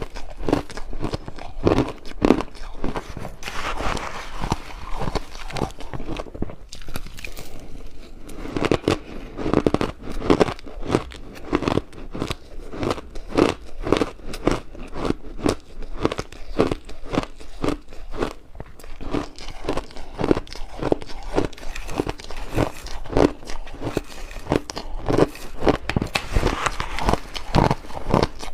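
Close-up crunching of ice being bitten and chewed, a steady run of sharp crunches, several a second.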